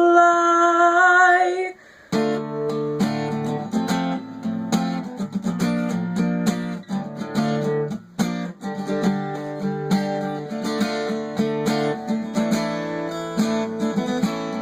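A singer holds a long note on the word "fly", then after a short break an acoustic guitar plays an instrumental passage of plucked and strummed notes.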